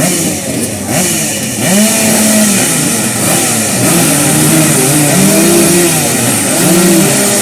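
Several motocross motorcycle engines revving at once, their pitch repeatedly rising and falling as the riders open and close the throttle.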